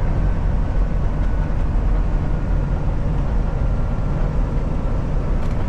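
Kenworth T680 semi truck heard from inside the cab while driving: steady low engine and road rumble, with a faint high whine that drifts slightly lower in pitch as the truck slows.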